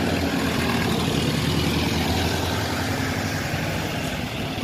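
Steady running noise of a vehicle, heard from on board, with a low, even hum.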